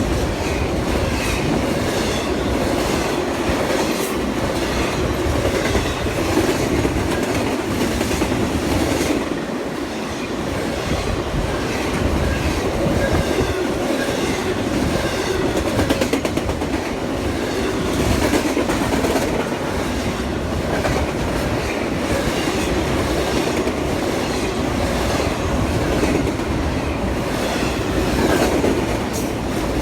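Train cars rolling past on the track, a continuous steady rumble with rhythmic clicking of the wheels over the rail joints.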